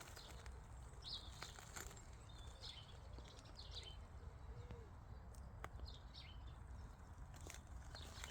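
Faint bird chirps, short calls every second or two, over a steady low rumble.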